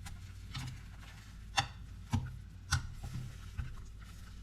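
A kitchen utensil clicking and tapping against a pot while cooked noodles are mixed, about five sharp knocks at uneven spacing over a steady low hum.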